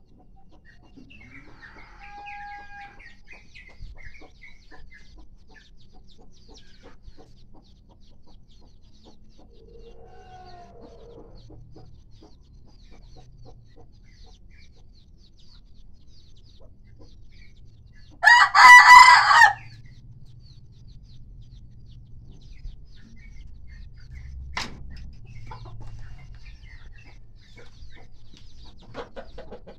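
A kampung rooster crowing once, loud and close, about two-thirds of the way through, with faint chicken calls and clucks scattered around it.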